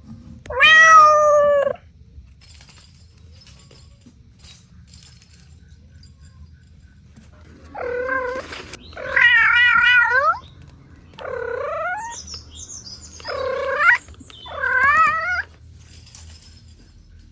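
Cat meowing six times: one call about half a second in, then after a long pause five calls close together, each lasting about a second, several of them wavering in pitch.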